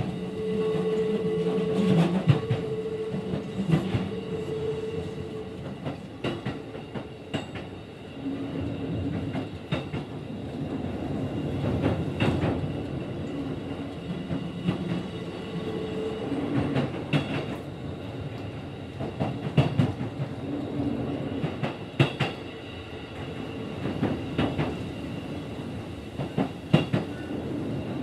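Keikyu 1500-series train running, heard from inside a motor car converted to a Mitsubishi VVVF inverter drive. Steady wheel and rail rumble with repeated clacks over rail joints, and steady motor and inverter tones that come and go and shift in pitch every few seconds.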